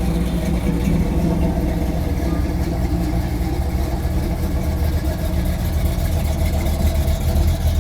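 Classic cars' engines idling with a steady low rumble as they creep past slowly in a line.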